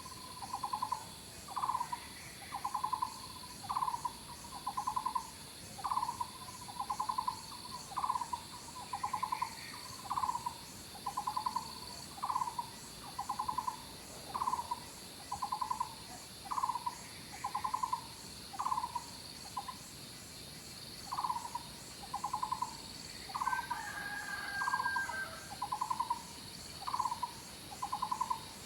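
An animal repeating a short trilled call a little more than once a second, over a steady high buzzing of insects, with one different higher call about two-thirds of the way through.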